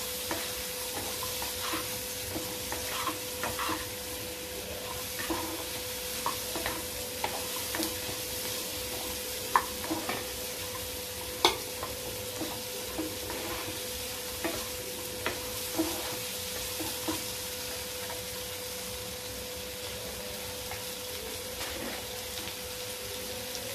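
Sliced spine gourd (kakoda) and onion sizzling in hot oil in a kadhai, stirred with a wooden spatula that scrapes and knocks against the pan in scattered clicks, fewer in the last few seconds. A faint steady hum runs underneath.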